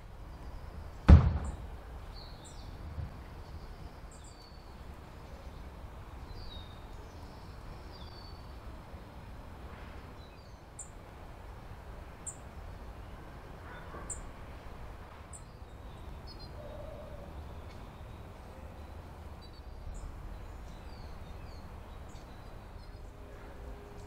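Small birds giving short, high chirps at scattered moments over a steady low outdoor rumble. One sharp knock about a second in is the loudest sound.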